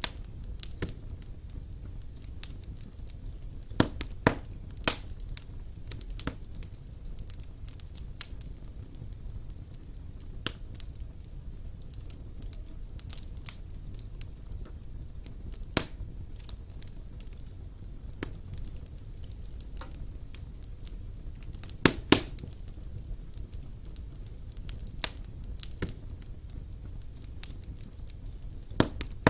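Wood fire burning in a fireplace: a steady low rumble of the flames with irregular sharp crackles and pops of the burning logs, the loudest pops about 4 s in and twice at about 22 s.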